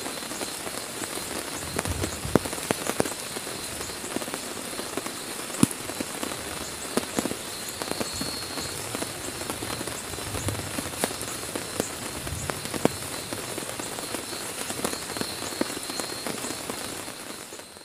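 Heavy rain falling on a tent: a steady wash with many sharp, separate drop hits. It fades out near the end.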